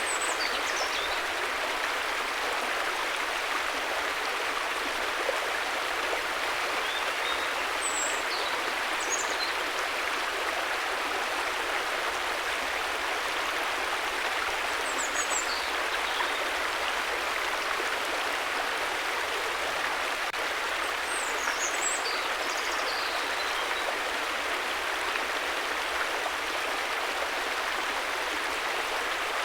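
River water flowing steadily, an even rushing noise. A few faint high chirps come through now and then.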